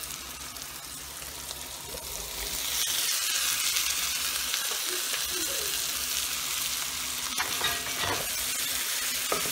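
Hot oil sizzling in a pot of frying eggplant and prawns, growing louder about three seconds in as drained boiled radish cubes are tipped in from a colander. A few light clinks near the end.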